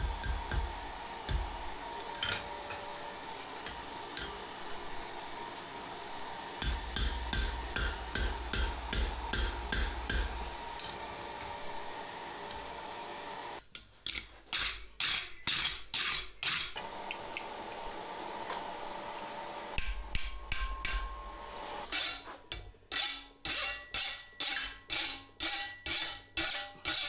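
A steady rushing mechanical noise with a few faint clinks for the first half. From about halfway, a blacksmith's hammer strikes hot steel on the anvil in three runs of evenly spaced, ringing blows, about two to three a second, the longest run near the end.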